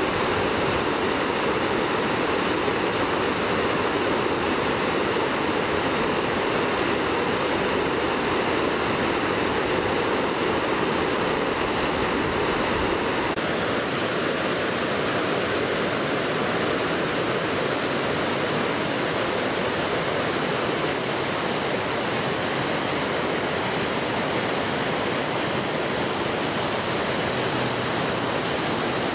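Mountain river rushing steadily over rocks. About halfway through, the rush abruptly turns thinner and brighter.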